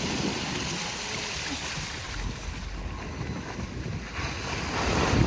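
Heavy rainstorm: a steady rush of wind and rain, with wind buffeting the microphone.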